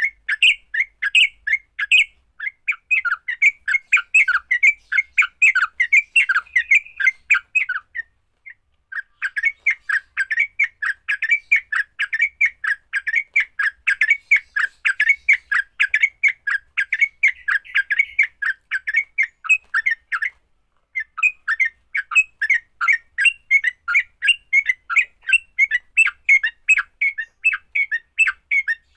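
Yellow-vented bulbul (trucukan) giving its rapid, chattering fighting call, a dense run of short notes. It breaks off briefly twice.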